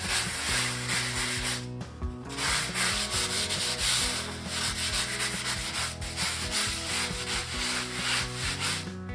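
Coarse air-conditioner filter sponge scrubbing a dirty floor with detergent in brisk back-and-forth strokes. There is a short pause about two seconds in, and the scrubbing stops near the end.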